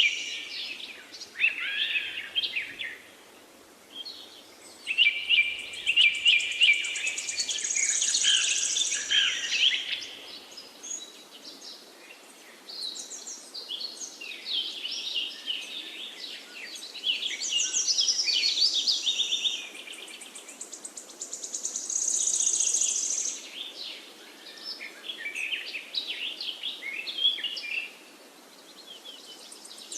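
Several forest songbirds singing in overlapping phrases of chirps and quick high trills, with short lulls between bursts, over a faint steady background hiss.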